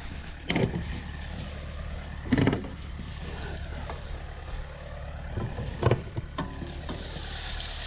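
A vehicle engine running with a steady low rumble, broken by three loud knocks or clunks.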